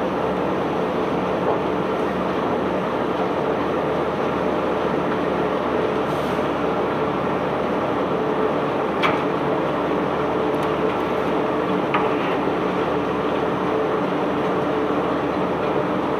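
Ship-unloading machinery running with a steady drone, with a few short sharp knocks, the loudest about nine seconds in and another about twelve seconds in.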